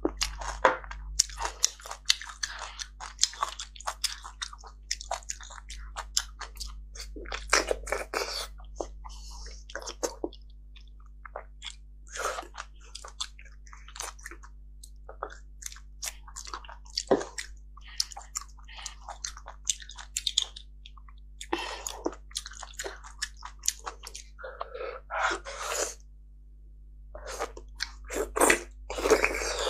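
Chewing of roasted beef bone marrow: many short wet mouth clicks and bites with brief pauses. Near the end there is a louder stretch as marrow is sucked out of the cut end of a bone.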